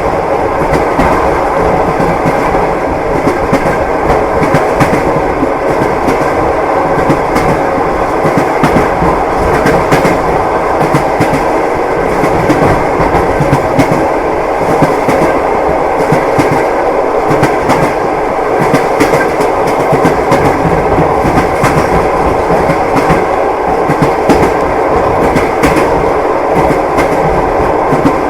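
Train wheels knocking over the rail joints, with the steady rumble of a moving railway carriage.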